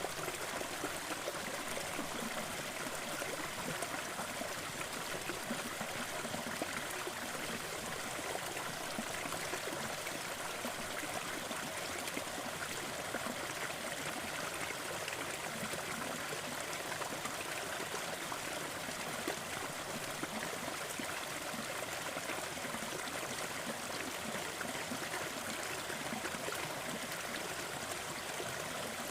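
A small waterfall running steadily, with water splashing and trickling.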